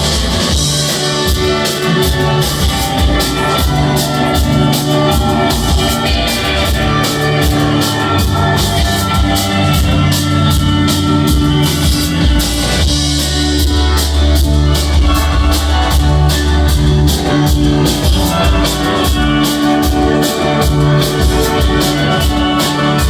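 Rock band playing a live instrumental jam: guitars over bass and a drum kit, with cymbals keeping a steady beat.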